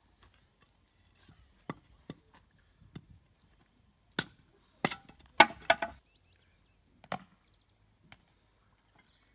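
Wooden sticks knocking against one another as they are stacked into a square 'well' fire lay. About a dozen sharp, irregular clacks, with the loudest in a quick cluster about halfway through.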